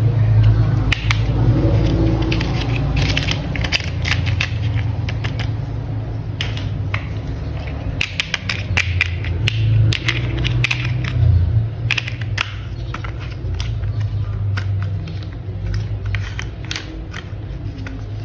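Hard plastic toy parts clicking and snapping against each other, in quick irregular clicks, over a steady low rumble.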